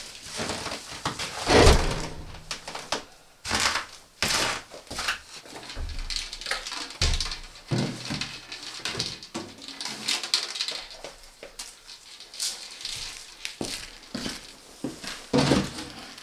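A run of irregular knocks, thuds and crunching rustles, with the loudest thud about a second and a half in.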